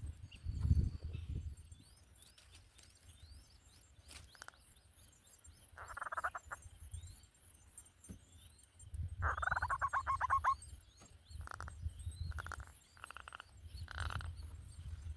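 Small birds calling: a series of short rising chirps, two buzzy, rapid trills around the middle, and a few brief pulsed calls near the end, over an intermittent low rumble.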